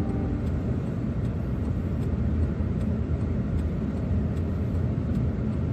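Van driving, with a steady low rumble of engine and road noise.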